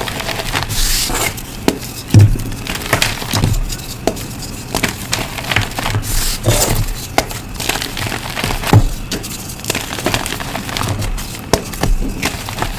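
Reformed blocks of gym chalk being crushed, an irregular run of crunching and crackling with sharp snaps and dull thuds.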